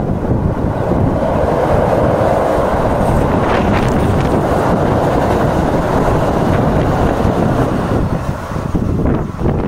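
Electric passenger train passing close by, the rumble of its wheels on the rails swelling from about a second in and easing after about six seconds, with wind buffeting the microphone.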